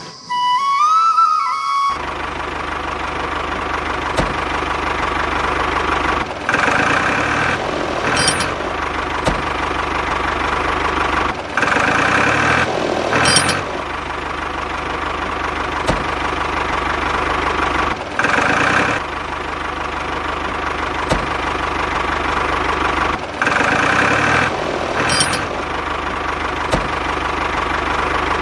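Engine-like running of a homemade mini tractor, a steady drone that grows louder and busier for a second or two about four times.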